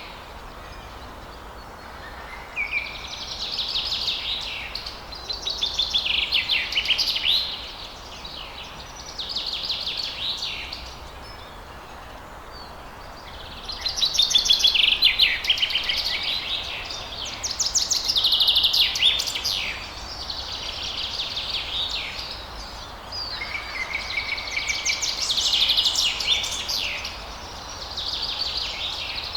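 A songbird singing a series of short, rapid trilled phrases, each a second or two long with brief pauses between, over a steady hiss of outdoor background noise.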